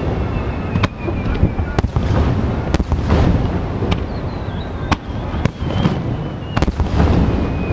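Aerial fireworks display: shells bursting in a string of sharp bangs about a second apart, with deep booming rumbles and crackle between them.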